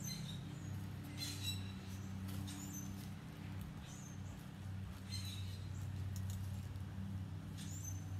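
Short, high bird chirps, one about every second or two, over a steady low hum.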